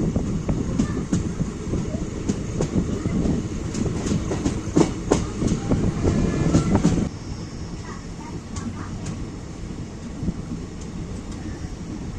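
Passenger train running on the rails, its wheels clattering with many sharp clicks over a heavy rumble. About seven seconds in the sound drops suddenly to a quieter, steady rumble.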